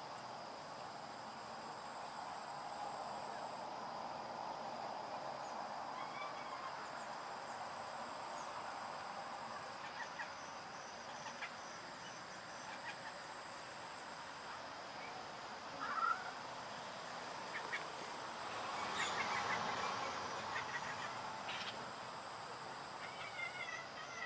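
Domestic cat making short, squeaky, dolphin-like chirping and chattering calls, the excited noises a cat makes on seeing birds. The calls come in scattered bursts, with the loudest, a quick rising squeak, past the middle, followed by a busier run of calls.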